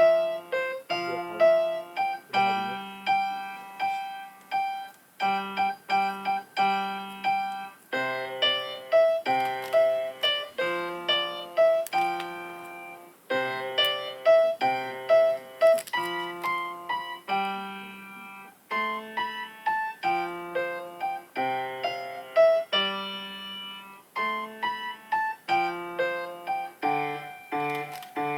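Solo piano playing a slow, steady piece: a melody over repeated chords, each note struck and fading.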